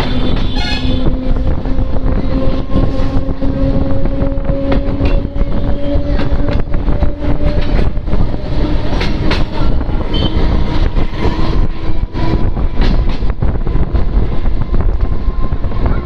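MEMU local train running, heard from its open doorway: a loud rumble with wheels clicking over rail joints, and a steady whine that rises slowly in pitch over the first half.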